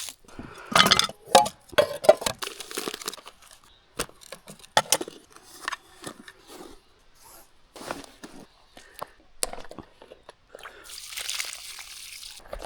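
Camping gear being handled and packed by hand: irregular rustling and crinkling with sharp clicks and knocks, and a longer rasping noise near the end.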